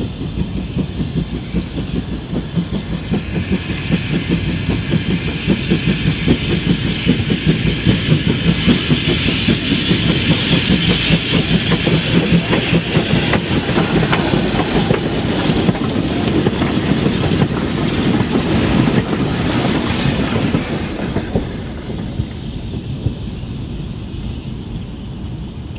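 A train on a heritage line passing by, its wheels clicking over the rail joints. The rumble and wheel noise build to their loudest about halfway through, then fade as it draws away.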